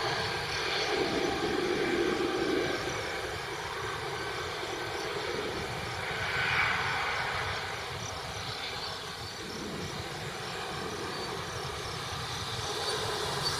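Jet engine noise of a landing Airbus A320neo dying away after it has passed overhead, a steady rumbling haze with a slight swell about six and a half seconds in.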